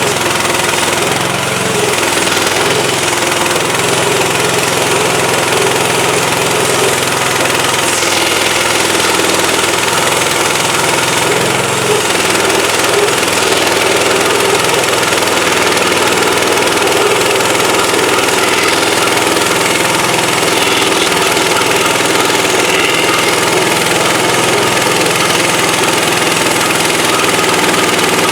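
The petrol engine of an HM130MAX portable bandsaw sawmill, running loud and steady without a break.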